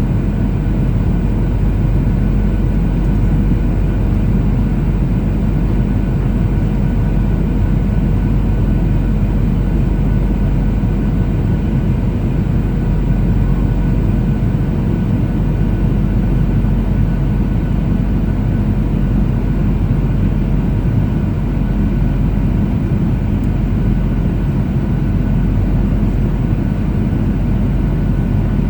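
Steady cabin noise of a Boeing 737-800 in flight: a continuous low rumble of engine and airflow, with faint steady tones from its CFM56 jet engines.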